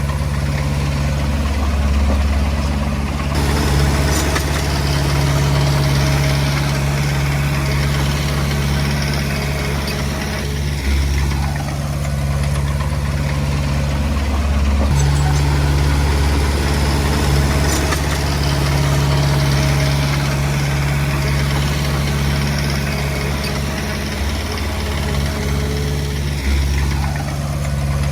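Komatsu D20P bulldozer's diesel engine running steadily, its note changing briefly a few times.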